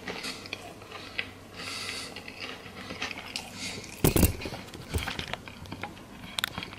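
A person chewing crackers and fried egg close to the microphone, with soft crunching. About four seconds in there is a heavy thump as the camera is handled, followed by a couple of sharp clicks.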